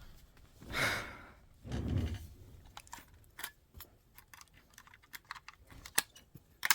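Hands handling small hard-plastic parts and packaging: two short rustles, then a run of small irregular clicks and taps.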